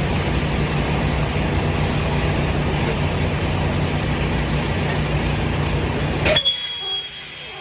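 Semi truck's diesel engine running steadily, then about six seconds in a short, sharp hiss of air as the air brakes are set, after which the engine sound drops away.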